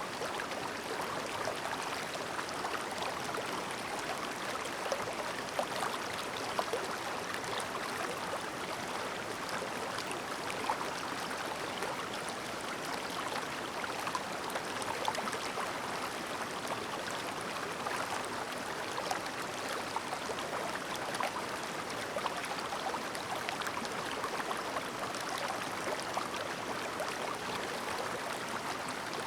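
Clear mountain stream babbling steadily: an even rush of flowing water with many small splashes and gurgles, without birdsong.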